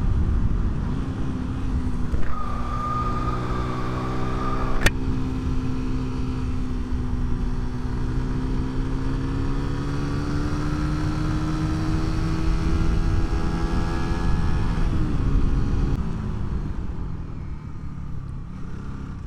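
Vehicle engine pulling up a steep hill road under steady wind and road noise, its pitch slowly rising for several seconds and then dropping about three-quarters of the way through. A single sharp click about five seconds in.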